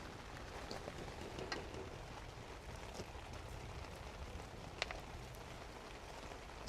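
Steady rain falling, an even patter with scattered sharper single drops, one louder drop hitting about five seconds in.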